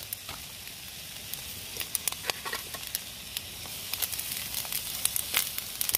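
Rice and sauce sizzling in a pan on a gas canister stove, with a steady hiss and scattered light clicks of a utensil stirring against the pan.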